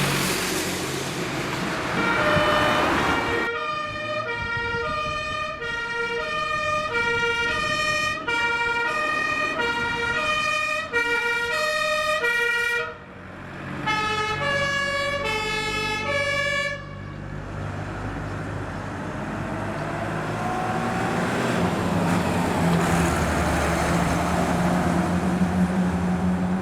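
German fire engine two-tone siren (Martinshorn) sounding as the trucks drive past, switching evenly between two notes. It stops about 13 s in, comes back briefly a second later, then gives way to the engine and tyres of a passing fire truck, growing louder near the end.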